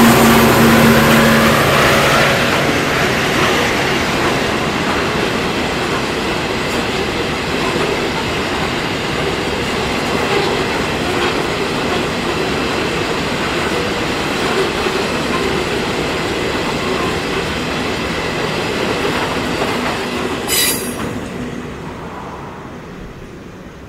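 Freight train of loaded aggregate hopper wagons rolling past with a steady rumble and rattle of wheels on rail. There is a brief high wheel squeal about 20 seconds in, and the sound dies away as the end of the train passes.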